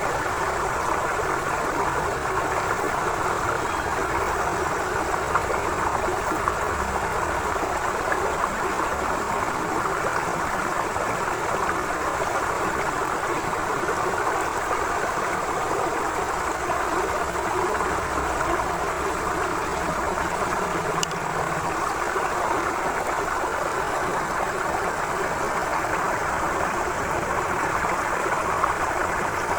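Forest river flowing: a steady, continuous rush of water.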